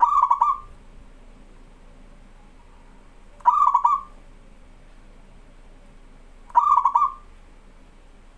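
Zebra dove (perkutut) cooing: three short, rapidly pulsed coos, evenly spaced about three seconds apart.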